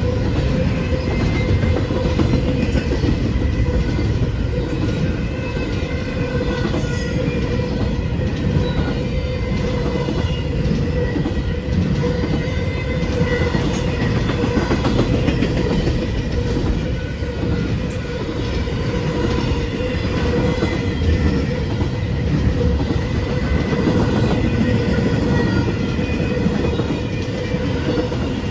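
Train rolling past: a steady rumble of wheels on rail, with a steady wheel squeal running through it.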